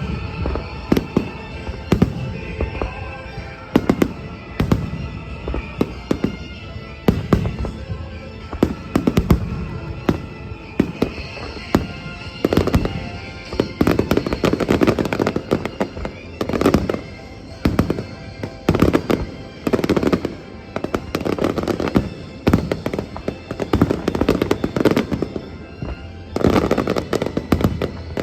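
Fireworks going off in a continuous run of bangs and crackles, thickening into a denser barrage in the second half.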